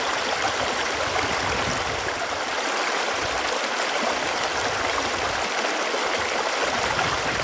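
Running water flowing steadily: an even rushing with small bubbling notes mixed in.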